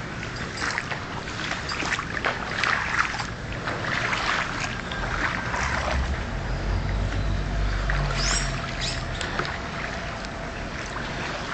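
Water sloshing and splashing irregularly, with wind on the microphone and a low rumble in the middle.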